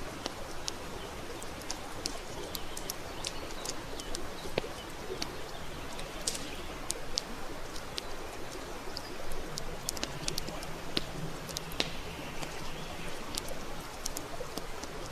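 Wood campfire crackling: irregular sharp pops and snaps over a steady hiss of burning.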